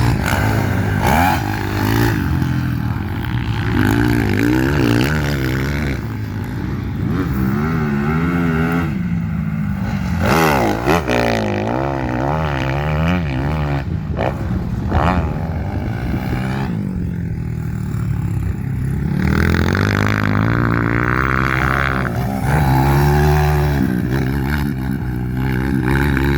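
Dirt bike engine revving, its pitch rising and falling again and again as the throttle is worked on and off.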